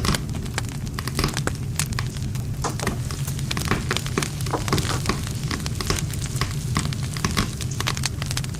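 Wood campfire burning, crackling and popping with many sharp snaps of burning wood, several a second, over a steady low rumble of the flames.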